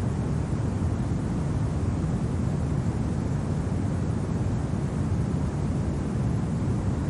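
Steady low rumble of winter wind, an even noise with no distinct gusts or other events.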